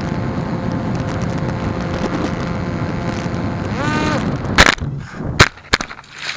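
RC flying wing's electric motor and airflow rushing steadily, then a brief whine that rises and falls as the throttle changes, followed by three sharp, loud knocks as the airframe hits the ground: a hard landing or crash, after which the sound goes quiet.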